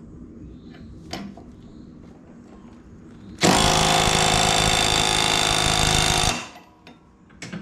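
Power impact wrench tightening a lawn mower blade bolt: a few light handling clicks, then about three and a half seconds in the tool runs hard for about three seconds and stops suddenly.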